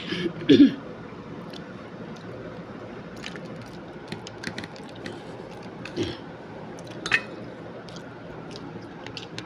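A person chewing food with scattered wet mouth clicks and smacks, and a short voiced sound about half a second in.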